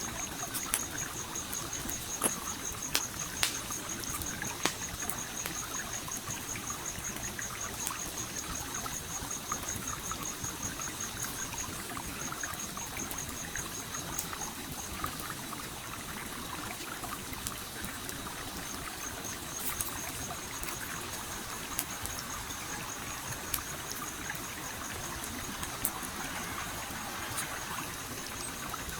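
A flowing stream with a campfire crackling over it: sharp pops and snaps, most of them in the first few seconds. A high, rapid pulsing trill runs through, dropping out for a few seconds midway.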